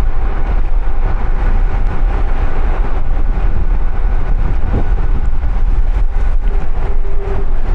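Wind rushing over the microphone of a camera on a moving bicycle, riding into a headwind in light rain: a loud, steady low rumble with a hiss above it.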